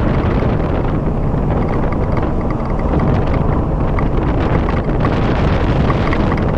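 A vehicle driving, giving a steady low rumble of engine and road noise with wind buffeting the microphone.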